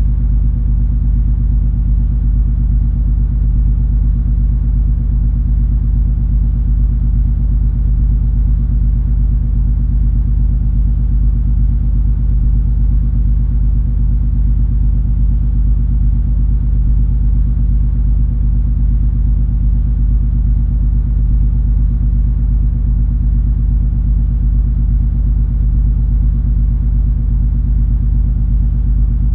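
Steady deep rumble of the cruise ferry MS Color Fantasy's engines and machinery heard on board while under way, with a low steady hum on top and no changes.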